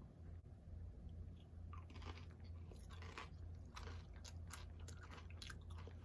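Crunchy chips being chewed close to the microphone: after a quiet first second or so, an irregular run of short, crisp crunches.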